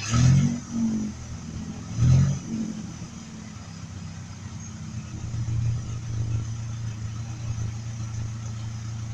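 Truck engine idling steadily at a low pitch, with two brief revs, one at the start and one about two seconds in. The idle is now set lower after running too high, so it no longer has the high-pitched, lawnmower-like sound.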